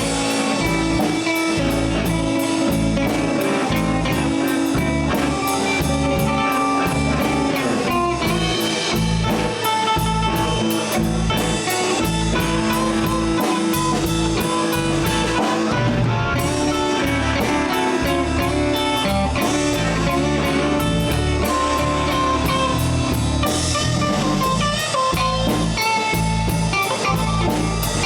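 Live blues band playing: an electric guitar solo of held and bending notes over bass and a drum kit.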